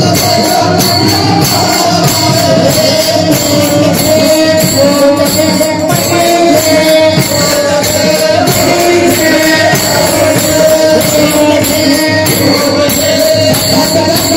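Pakhawaj drumming with jingling metal percussion over a steady melody line, in a Marathi devotional folk song.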